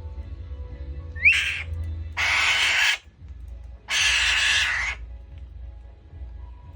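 A small falcon (alap-alap) giving harsh, raspy screeches: a short rising call, then two long screeches about a second apart, over background music.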